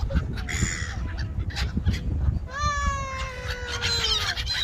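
Pond birds calling: a short harsh call about half a second in, then one long drawn-out call of nearly two seconds that slides slowly down in pitch.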